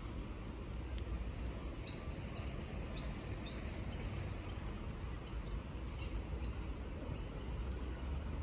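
A bird calling in short, high chirps that fall in pitch, repeating about twice a second from about two seconds in, over a steady low rumble.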